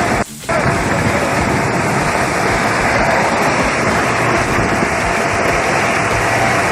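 Heavy rain pouring down, a loud, steady hiss that drops out briefly about a quarter second in.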